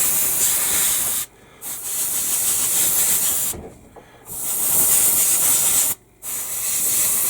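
Airbrush spraying paint in four bursts, the hiss cutting off sharply between them as the trigger is released.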